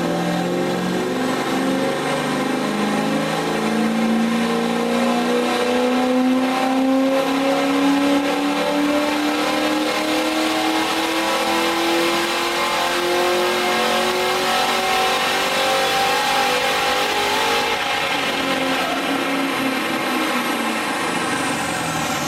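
Holden VZ Commodore's 5.7-litre LS1 V8 with an upgraded cam, automatic, in a full-throttle chassis-dyno pull: a couple of quick upshifts at the start, then the revs climb steadily for about sixteen seconds before the throttle is lifted and the revs fall. A high whine falls away near the end as the dyno rollers spin down.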